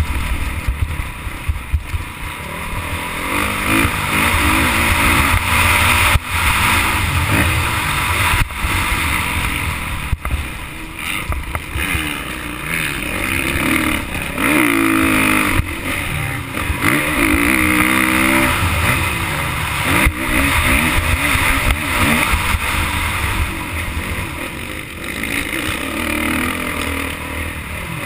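Motocross bike engine revving up and down as it is ridden, its pitch rising and falling again and again with short drops in between, over a heavy rushing noise.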